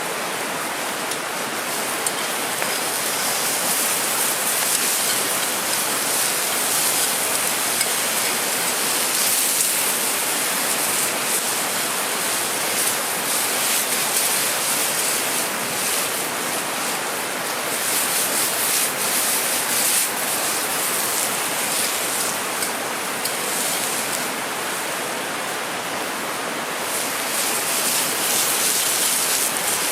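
Steady rushing of a mountain river flowing over rocks, a continuous hiss of water that swells and eases slightly.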